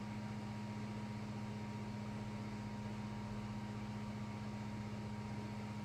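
Steady low electrical hum with a faint higher whine over an even background hiss.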